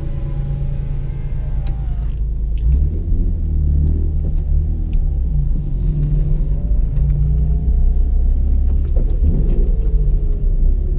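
Toyota Supra's straight-six engine heard from inside the cabin, a low steady rumble as the car pulls away and drives slowly. The engine note shifts in pitch about a second in and again near the end, with a few light clicks.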